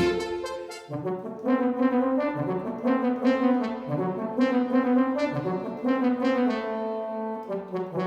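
Yamaha DX7 FM synthesizer playing a brass-like patch: a short melody of separate held notes, each starting with a clear attack.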